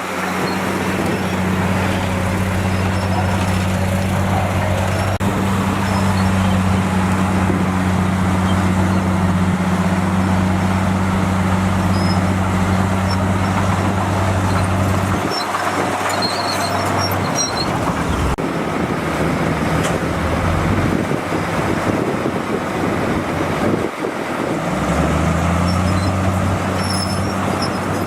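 Bulldozer's diesel engine running with a steady low drone over continuous rumbling noise. About halfway through the drone drops away, then comes back rising in pitch near the end as the engine picks up again.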